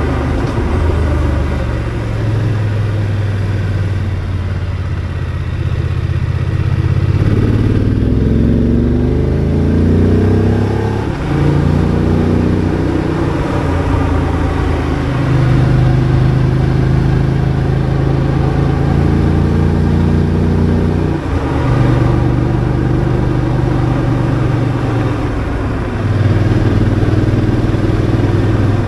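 BMW F 850 GS parallel-twin engine pulling the motorcycle along at road speed. Its pitch climbs as it accelerates and then drops and settles in steps several times as the speed and gear change.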